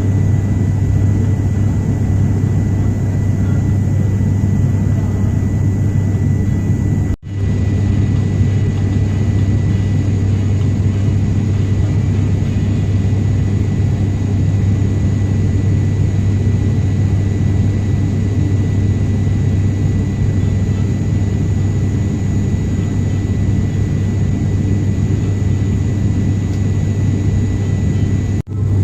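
Steady drone of an airliner's engines heard inside the passenger cabin in flight: a strong low hum with a few thin steady whining tones above it. The sound cuts out for an instant about seven seconds in and again just before the end.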